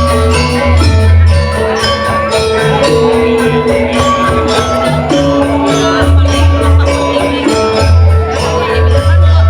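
Balinese gamelan playing dance music: ringing bronze metallophone notes over a deep sustained gong tone, with rapid shimmering cymbal clashes keeping a steady beat.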